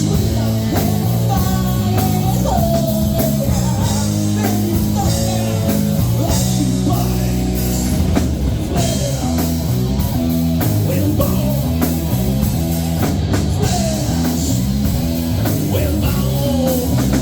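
Rock band playing live: electric guitar, bass and drum kit driving a steady beat, with a voice singing over it.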